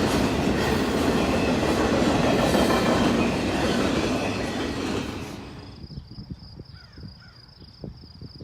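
Railroad cars rolling past on the track, wheels clattering over the rail joints with some squeal, the noise dying away about five seconds in as the train clears. Then a steady high chirring of insects is left.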